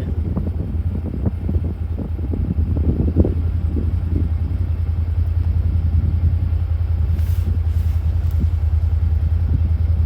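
Avalanche rumbling down a valley: a steady, loud low rumble with faint crackling over it.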